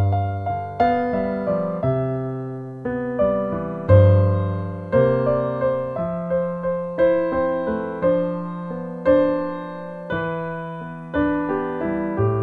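Piano music: a slow line of struck notes and chords, each one fading, with a new one about every second.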